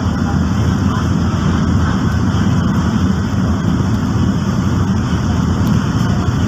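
Steady low rumble of a train running along the track, heard from inside the moving carriage.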